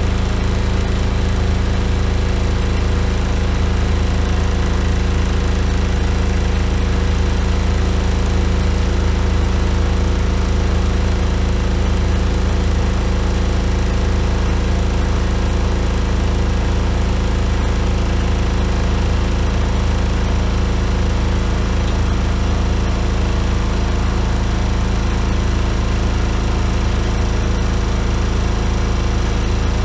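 Miele Softtronic W3923 washing machine in its final high-speed spin, the drum turning fast with a steady, even hum and whine.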